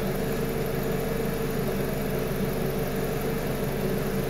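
Renault Scénic petrol engine idling steadily, an even hum with no change in speed.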